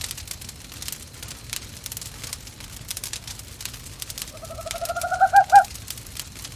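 An owl calls once a little after four seconds in: a single rising call, loudest near its end. Fire crackles in a fireplace throughout.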